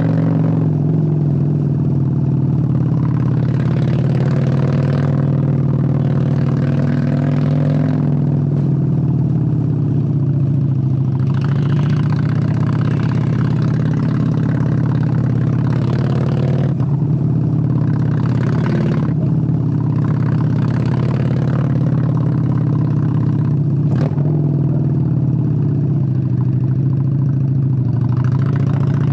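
Honda Steed 600's V-twin engine running while the motorcycle is ridden, its low exhaust note holding fairly steady with several rises and dips as the throttle changes. There are repeated stretches of rushing hiss and a single sharp click about three-quarters of the way through.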